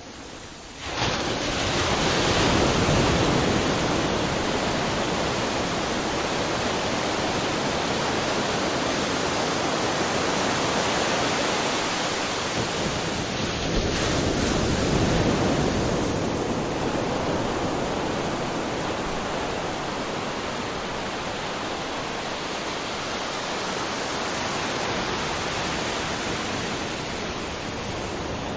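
Ocean surf: a steady wash of breaking waves that rises sharply about a second in and swells again around the middle.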